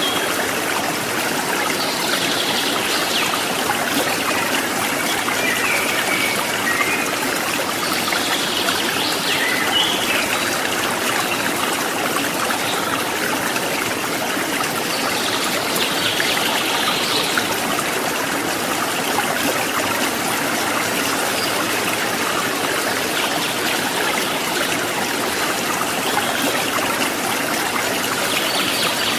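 Stream water trickling over rocks in a steady, even rush, with brief brighter splashy spells every several seconds.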